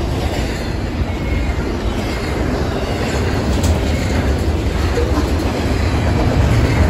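Double-stack intermodal freight train rolling past, its well cars' wheels making a steady low rumble on the rails, with a few faint clicks.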